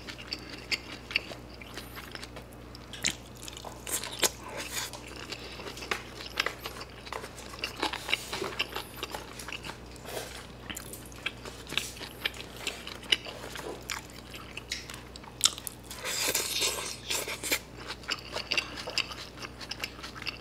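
Person chewing food close to the microphone: many small wet clicks and crunching bites at an uneven pace, with a longer, louder rush of noise about sixteen seconds in.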